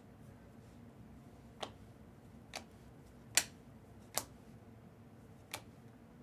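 Five sharp, irregularly spaced clicks of stiff chromium Panini Prizm trading cards being flipped through by hand, the loudest in the middle.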